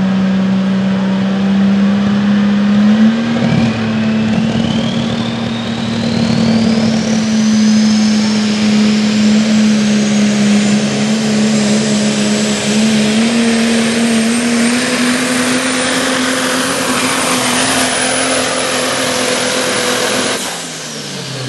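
Triple-turbocharged Cummins diesel pulling under full load. The engine note holds steady while a turbo whistle climbs steadily higher in pitch through the run. About twenty seconds in the throttle shuts off suddenly and the engine winds down, its pitch falling.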